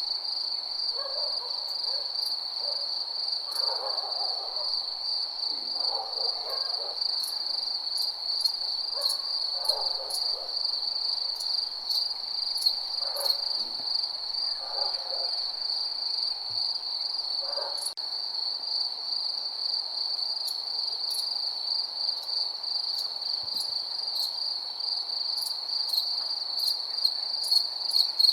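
Night chorus of crickets chirring in a steady high-pitched trill. Short, lower calls from another animal break in every few seconds during the first two-thirds.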